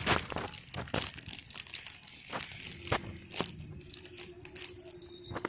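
Irregular crunching and crackling: a string of sharp clicks at uneven intervals.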